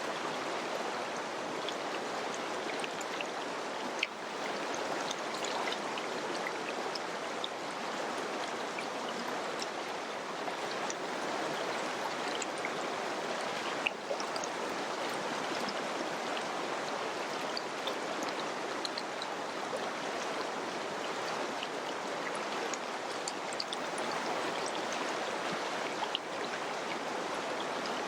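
Mountain river or stream rushing steadily over rocks, with small splashes and gurgles scattered through it and a few brief clicks.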